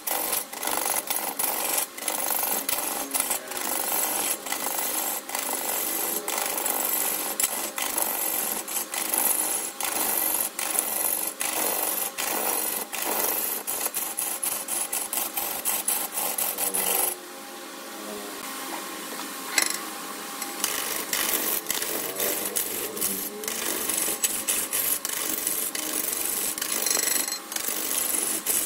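Turning tool cutting wood spinning on a lathe: a steady rough scraping full of quick ticks, which drops to a quieter stretch about two-thirds of the way through and then builds up again.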